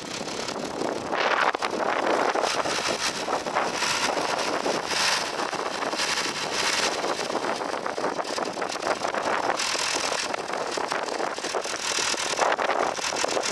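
John Deere 3350 tractor's diesel engine running steadily, mixed with wind buffeting the microphone.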